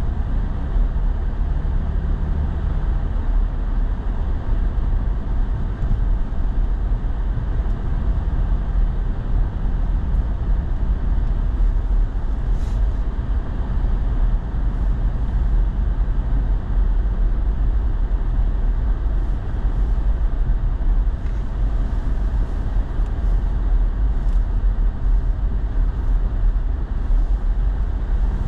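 Steady low rumble of a pickup truck's engine and tyres, heard from inside the cab while driving.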